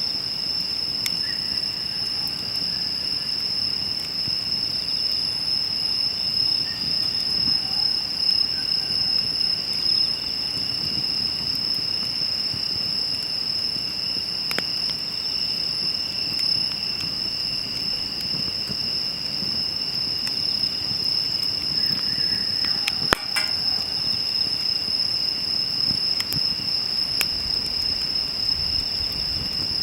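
A steady, unbroken high trill of insects, with scattered sharp crackles and pops from a burning wood campfire, one louder pop about 23 seconds in, over a low rumble from the fire.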